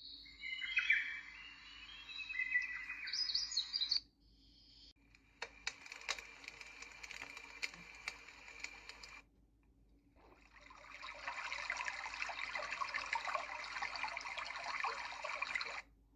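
Sound samples from a baby white noise machine played one after another: birdsong with chirps sweeping in pitch for about four seconds, then after a short gap a hiss with scattered clicks, then after another gap a denser crackling hiss like rain or water.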